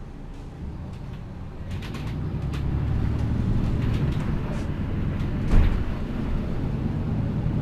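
Diesel engine of a MAN Lion's City G articulated city bus running, with a low drone that grows louder from about a second and a half in and then holds steady. There are light rattling ticks and a single knock about five and a half seconds in.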